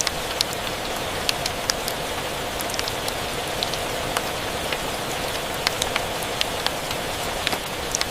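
Steady rain hiss with irregular sharp pops and crackles from a wood fire scattered through it, a few each second.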